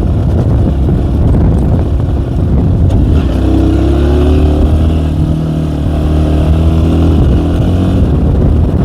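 K Moto ATX enduro motorcycle's engine running while riding; its note becomes steadier and more even from about three seconds in.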